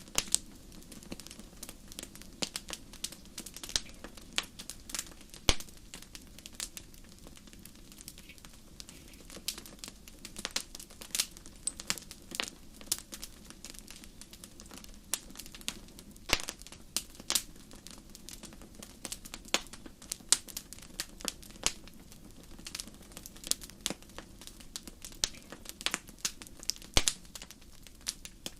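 Wood fire burning in a fireplace, crackling with frequent, irregular sharp pops over a low, steady rumble.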